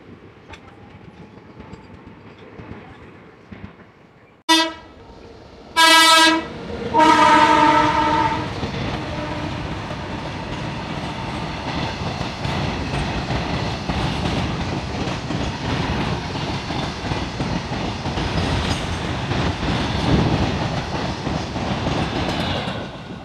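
An electric locomotive's horn, which the caption gives as an Indian Railways WAG-9, sounds three blasts, the last the longest at about a second and a half. A freight train of covered wagons then rolls past close by at speed, a loud steady rumble of wheels on rail that cuts off abruptly. Before the horn there is only a faint low rumble.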